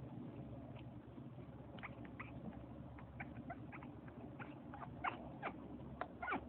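African grey parrot imitating a puppy: a string of short, high whimpering squeaks, many falling in pitch, coming more often near the end.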